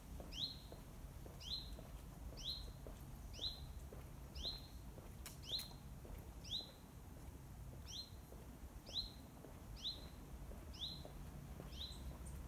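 A bird repeating a short, high, downward-sweeping call about once a second.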